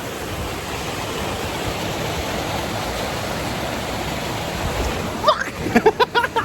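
Steady rushing of a waterfall. Near the end, short, loud pitched sounds break in over it.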